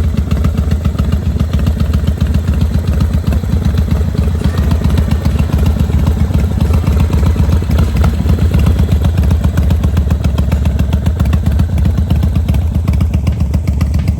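Harley-Davidson motorcycle V-twin engine running at a steady speed, a loud low pulsing exhaust note with no big revs.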